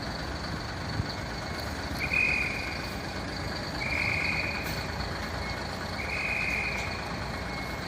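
Warning beeper on a fire truck giving long, high beeps about every two seconds, three in all, over the steady low rumble of an idling diesel engine.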